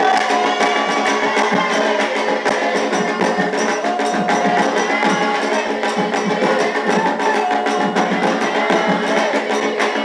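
Candomblé ritual music: fast, steady hand percussion with singing over it.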